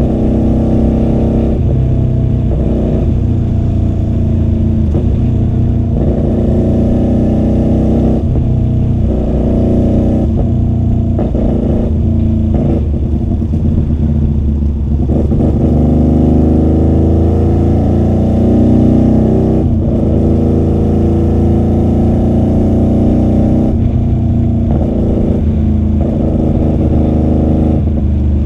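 QJMotor SRV250 motorcycle's V-twin engine running through a custom 2-into-1 exhaust while riding, its revs rising and dropping several times as it accelerates and eases off. Heard from a microphone inside the rider's bag.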